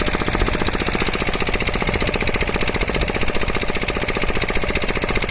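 A loud machine running steadily with a rapid, even pounding rhythm.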